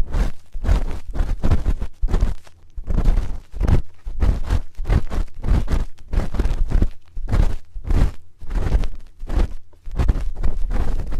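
A spoon rubbing and scraping against an ASMR ear microphone in quick repeated strokes, about two to three a second, each with a deep thud.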